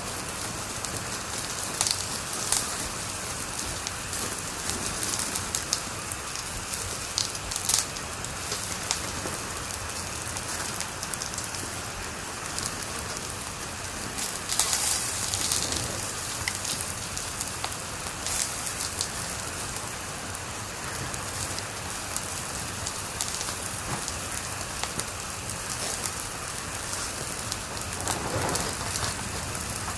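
Wood fire crackling in a fireplace: a steady hiss broken by irregular sharp pops and snaps, with a louder burst of crackling about halfway through.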